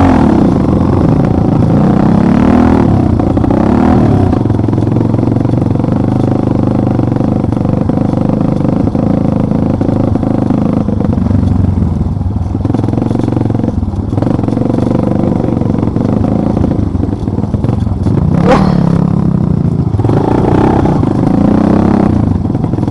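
Off-road vehicle engine running continuously while driving, its pitch rising and falling slightly with the throttle.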